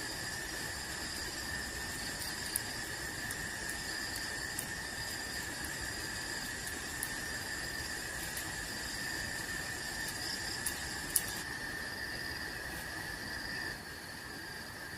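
Steady chorus of insects such as crickets, several unbroken trilling tones at different pitches over a low hiss, with a few short sharp clicks.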